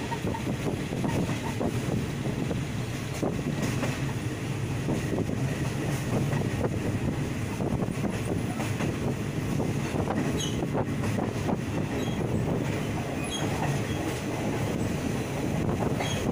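Railway carriage running along the track, heard at its open window: a steady rumble of wheels on rail, with scattered clicks and a few faint high squeaks from the wheels.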